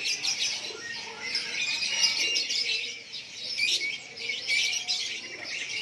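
Many caged songbirds chirping and singing at once: a dense, unbroken chorus of overlapping high chirps and trills.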